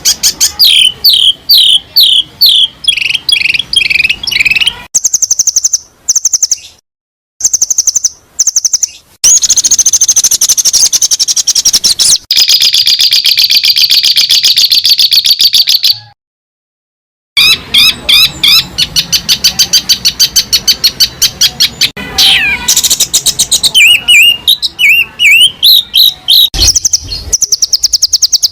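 Recorded songbird song used as masteran tutoring material for caged songbirds: very fast high trills and chatter, with a run of repeated down-slurred whistles near the start. It breaks off abruptly into silence twice, about a quarter and about halfway through, where recordings are spliced.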